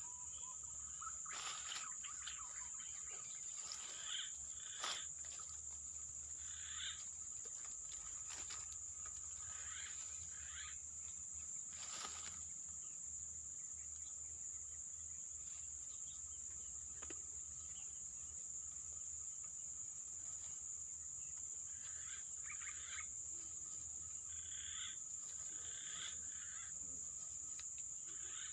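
Steady high-pitched insect drone, with scattered short chirps and a couple of sharp clicks, about five and twelve seconds in.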